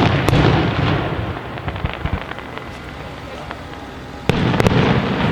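Large aerial firework shells bursting: a loud bang right at the start and another about four seconds in, each followed by a rolling rumble with a few sharp crackles.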